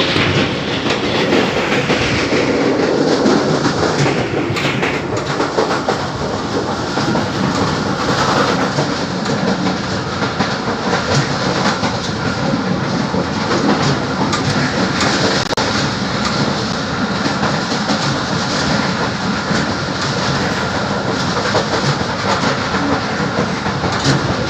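Passenger train running at speed, heard from on board: a steady, loud rumble of wheels on the rails.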